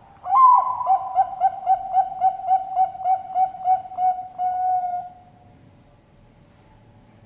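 Zebra dove (Bangkok perkutut) cooing its song: an opening note, then a quick run of about a dozen even coos, some three or four a second, ending on a longer held coo. It stops about five seconds in.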